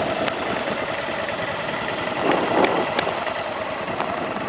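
Off-road motorcycle engine running steadily at low speed, with a brief louder surge about halfway through.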